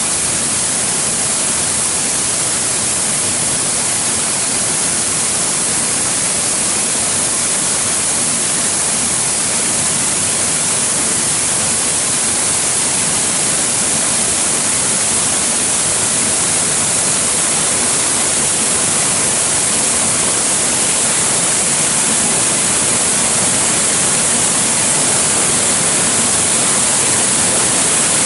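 Rushing water of a waterfall or stream rapids: a loud, steady, even hiss with no breaks, growing slightly louder toward the end.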